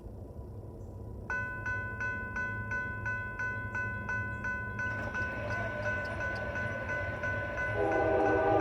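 Electronic railroad crossing bell starts about a second in, ringing rapidly and steadily, about four strokes a second. Near the end a locomotive horn comes in as the train approaches.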